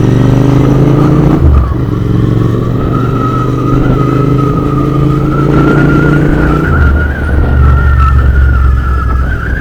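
Royal Enfield Interceptor 650's parallel-twin engine running on the move, its pitch falling at first and then dropping in two steps, about one and a half seconds in and near seven seconds, as the bike slows to pull in at a stop.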